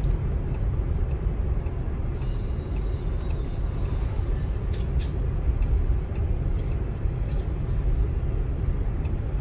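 Steady low road and tyre rumble of a Tesla Model 3 driving along.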